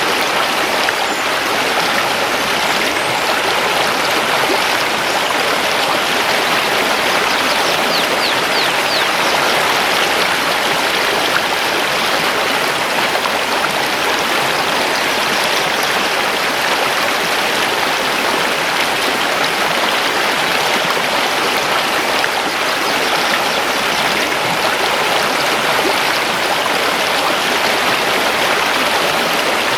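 River water rushing over stones: a steady, even rush with no pauses.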